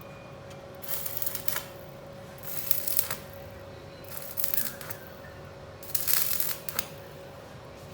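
Welding on a rusted Vespa floor panel: four short bursts of crackle, each under a second long, as holes are tacked shut. A steady hum runs underneath.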